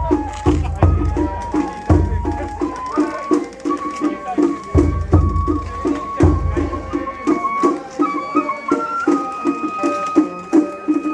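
Japanese festival float hayashi music: a shinobue bamboo flute playing long held notes over a steady quick drum beat of about four strokes a second, with a few deep big-drum strokes in the first half.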